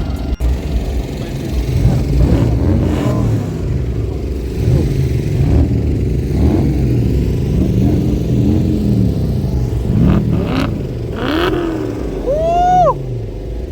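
A car engine revved over and over in short blips, its pitch rising and falling about once a second. Near the end comes one sharper, higher rev, and a few sharp cracks sound between revs.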